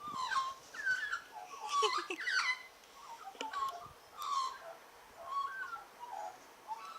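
Australian magpie (grey-backed form) singing: a varied warbling song of short gliding, fluting phrases that come in bursts, with brief pauses between them.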